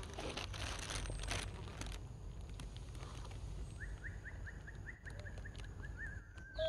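Outdoor forest ambience with some rustling, then a bird calling: a quick run of short rising chirps, about five a second, ending in a held whistle near the end.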